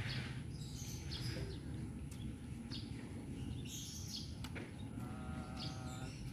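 Birds chirping in short, scattered calls over a steady low outdoor rumble, with a held tone lasting about a second near the end.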